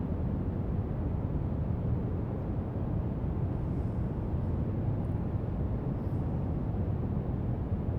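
Steady brown noise, a deep even hiss, with a few faint light scratches of a marker drawing on paper around the middle.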